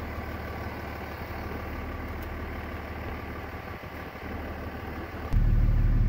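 Vehicle engine idling, a steady low hum. About five seconds in it turns abruptly much louder and deeper.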